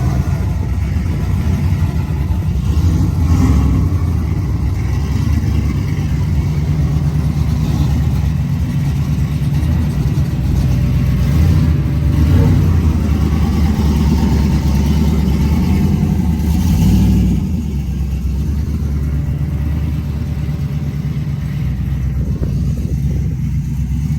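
Pickup truck engine running continuously with a deep rumble, swelling a little in stretches and easing slightly about 17 seconds in.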